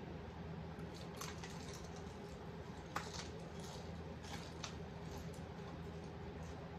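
Faint chewing and crunching of a crispy fried chicken drumstick, a few scattered crackles with the sharpest about three seconds in, over a steady low hum.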